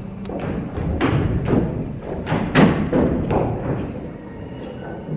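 Irregular heavy thumps and knocks on a wooden stage floor, the loudest about two and a half seconds in: a group of people tramping noisily onto the stage.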